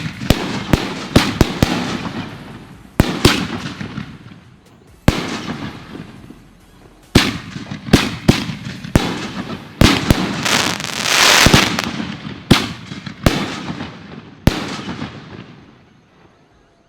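Consumer fireworks going off: a string of sharp bangs at irregular intervals, each trailing off in a crackling rumble, with a dense spell of crackling about ten seconds in. The bangs stop shortly before the end, and the last one dies away.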